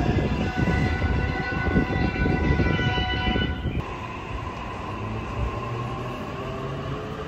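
JR East electric commuter train moving on the rails: a low rumble with several steady high-pitched tones from its motors, which stop a little under four seconds in, leaving a lower steady hum as the rumble eases.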